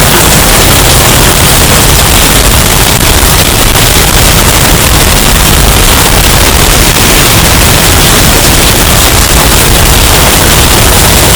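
Hurricane wind sound effect, bass-boosted and overdriven into a steady, distorted wall of noise at near full volume, strongest in the deep bass.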